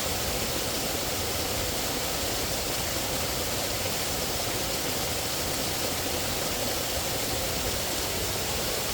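Steady, even rushing outdoor ambience with no distinct events or pauses.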